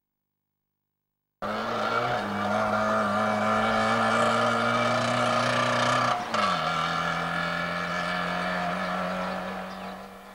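Trabant's two-stroke twin engine revving hard as the car pulls away, cutting in abruptly after a second and a half of silence. About six seconds in the pitch drops at a gear change, then the engine note fades as the car draws away.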